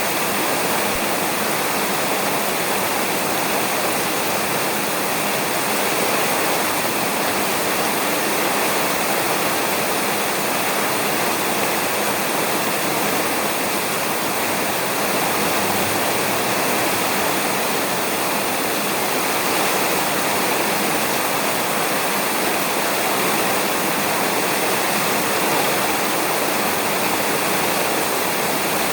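Steady heavy rain falling on a roof, an even hiss of water with no thunder or other single events.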